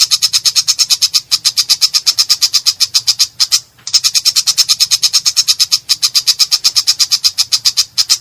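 Long-tailed shrike (cendet) giving a harsh, rapid chattering call, about nine or ten rasping notes a second in long runs, with a brief pause about a second in and a longer one around three and a half seconds in.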